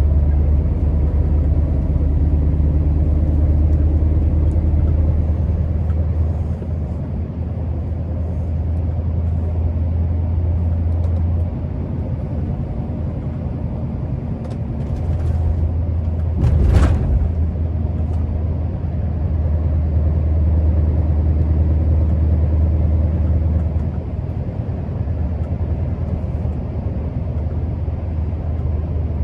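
Scania R650's V8 diesel engine running steadily on the road, a deep drone that drops in level a few times. A brief loud noise stands out about two-thirds of the way through.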